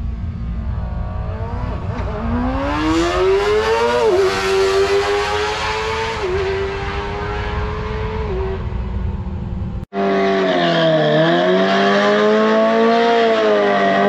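Sport motorcycle engine revving hard: the pitch climbs over the first few seconds, then holds high with a few brief dips. Near the ten-second mark it cuts suddenly to another stretch of high revving that dips and rises again.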